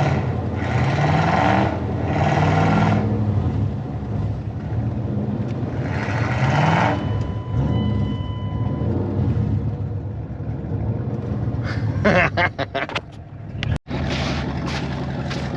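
Truck engine revving hard in repeated surges, its pitch rising and falling, with loud rushing noise at the peaks. There is a patch of knocks and clatter near the end, then an abrupt break.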